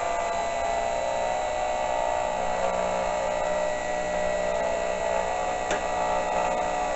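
Milling machine running steadily while taking a cut in steel stock, a steady whine over a motor hum.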